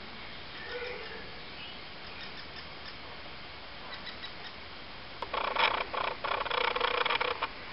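Faint, short bird chirps. About five seconds in, a much louder harsh, rasping sound starts and runs in stop-start bursts for about two seconds.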